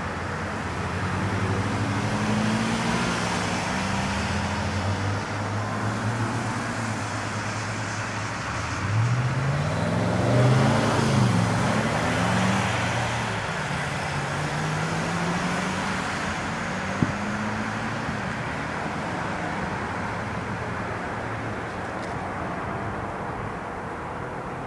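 Engine hum of a passing heavy vehicle, its pitch sliding up and down, loudest about ten seconds in.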